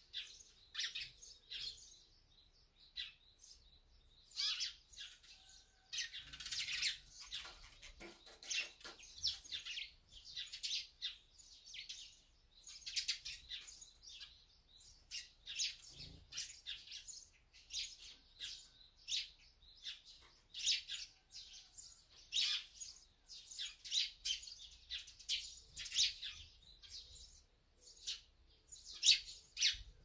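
Small songbirds chirping: a steady run of short, high chirps, several a second, with no pause.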